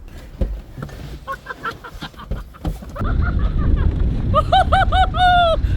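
BMW 530d diesel car driven hard over a rough, uneven field: a heavy low rumble of engine and tyres swells up about three seconds in. Over it come excited whooping shouts, four short ones and then a longer one.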